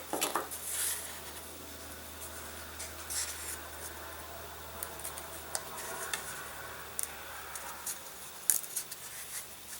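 Small model-aircraft parts being handled and test-fitted on the bench: light rubbing, scraping and scattered small clicks, with a few louder scrapes near the start, around three seconds and near the end.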